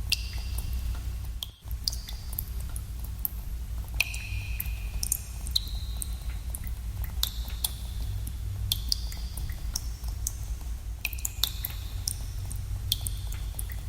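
Water drops falling into cave pools: frequent, irregular plinks, each a sharp tick with a short high ringing tone, over a steady low rumble.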